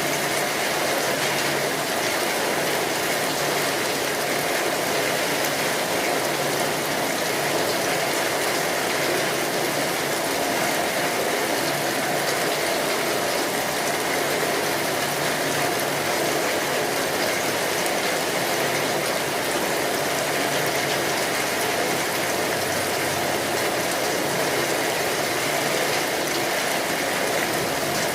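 Steady rainfall: an even, unbroken hiss of rain that holds the same level throughout.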